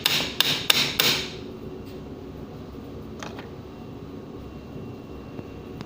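Mallet tapping on the electric pump motor's end cover to loosen it from the motor body: four quick, sharp blows in the first second or so, then one faint knock about three seconds in.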